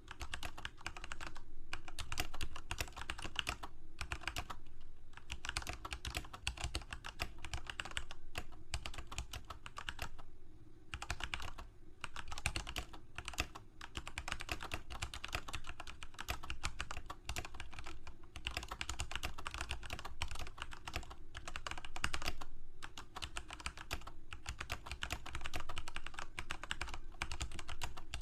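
Computer keyboard typing: rapid, continuous keystroke clicks in flurries, broken by brief pauses of under a second.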